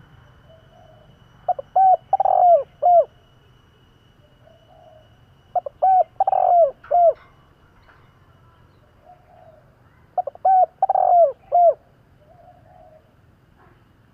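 Spotted dove cooing: three phrases of several short, falling coo notes, repeated about every four seconds, with soft notes between them. This is a spotted dove's song, used as a lure call to provoke wild doves into answering.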